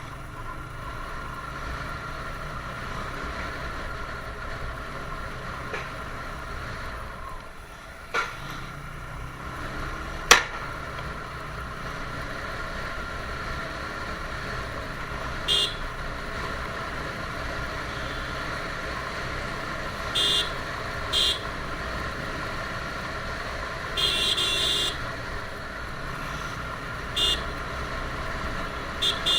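TVS Apache RTR 160's single-cylinder engine running steadily while riding in traffic, with short vehicle horn honks about six times in the second half, one held for about a second. A sharp click about ten seconds in.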